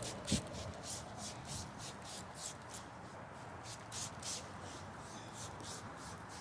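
Spray bottle being spritzed again and again against mosquitoes: a quick, irregular series of short hisses, about two a second, thinning out near the end.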